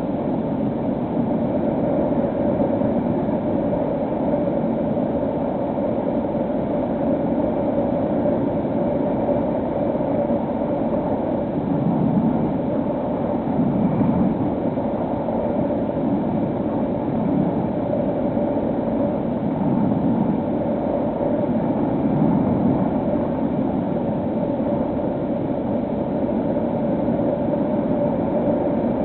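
Electric motor and propeller of a HobbyKing SkyEye FPV plane running steadily in flight, a constant hum with rushing wind noise that swells a little a few times.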